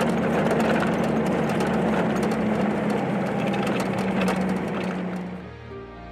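Pickup truck engine running steadily with a low hum. It fades out near the end as soft music comes in.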